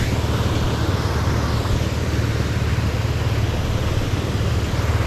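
Motorcycle engine running steadily while riding: an even low rumble with a noisy hiss above it.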